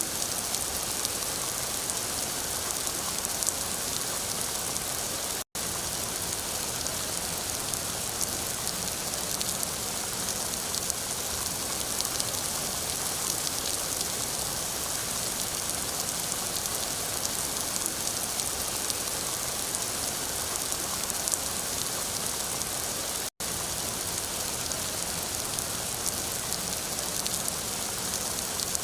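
Steady rain falling, a dense even hiss with many small drop ticks. The sound cuts out for an instant twice.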